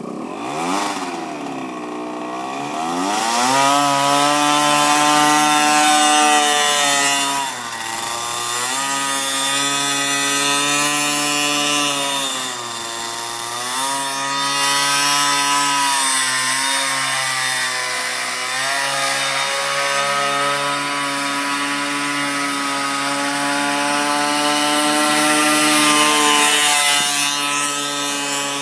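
Mini bike's small engine revving hard: the pitch climbs over the first few seconds, then holds at high revs with brief dips about a third of the way in, near the middle and a little later, as the throttle eases or it shifts.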